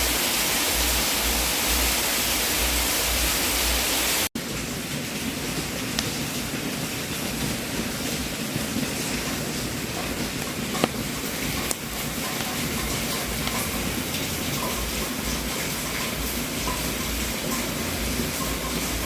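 Wood fire in a fireplace: a steady, even hiss for about four seconds, a split-second cut, then crackling with a few sharp pops.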